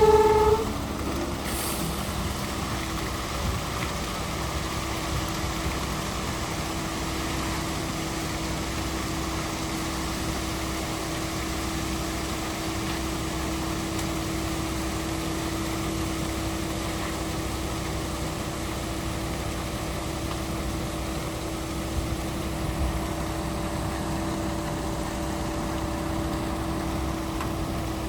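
A heavy engine running steadily, with a constant hum and no change in speed.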